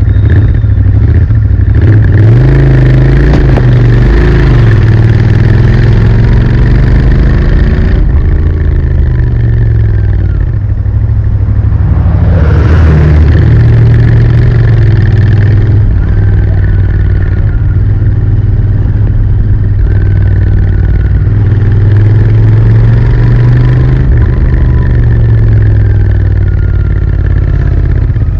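Royal Enfield Interceptor 650's parallel-twin engine running through its stock exhaust on a ride, its pitch rising and falling repeatedly with the throttle and gear changes.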